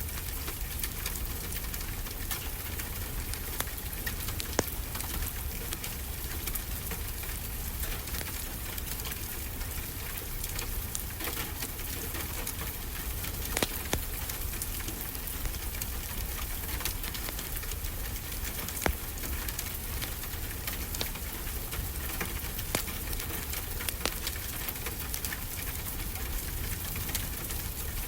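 Steady rain with the crackle of a wood fire, many small clicks and a few louder pops.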